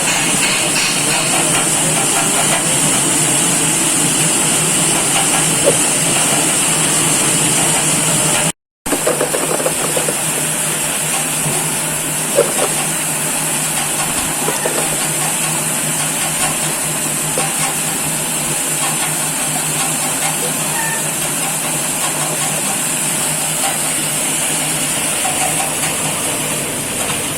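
Fruit and vegetable washing machine running: a steady motor hum under a continuous hiss of spraying water, with a few faint knocks.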